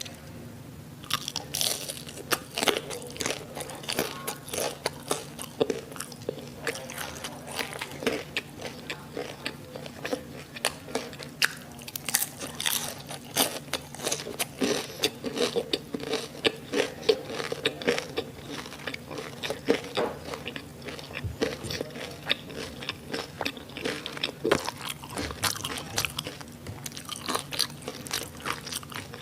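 Close-miked biting and chewing of crispy fried Korean sausages and onions: a dense, continuous run of crunches starting about a second in.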